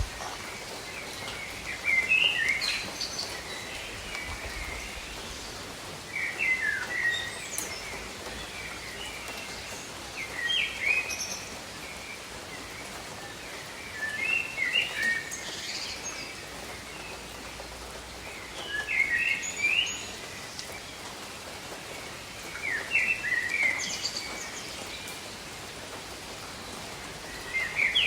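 Steady rain falling over tropical forest, with a songbird repeating a short chirping phrase about every four seconds.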